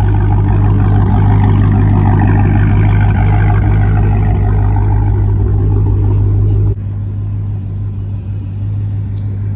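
Car engine running loud at high revs, then dropping abruptly to a quieter, lower rumble about seven seconds in.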